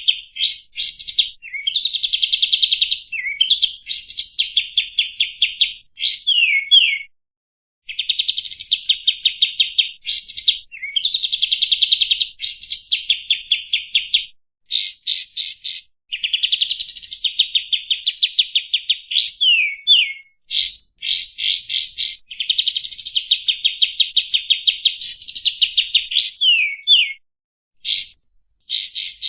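Kapas tembak bulbul singing in repeated phrases: fast rattling trills broken by sharp upswept and downswept whistled notes, with short pauses between phrases.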